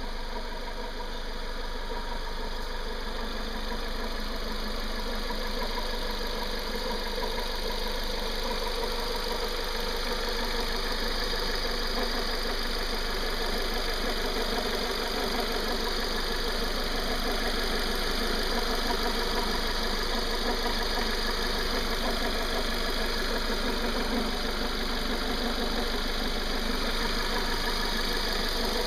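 Renault Duster's 2.0-litre engine running steadily at an even speed, making the strange noise that the owner is trying to show.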